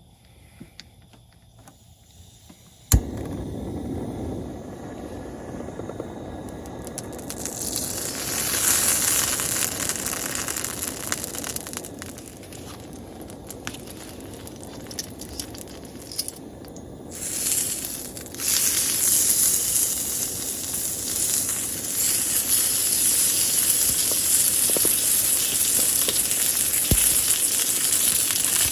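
A click, then a camp gas burner running with a steady rush. Food then sizzles and crackles in a hot pan, breaking off briefly about two-thirds of the way through before carrying on.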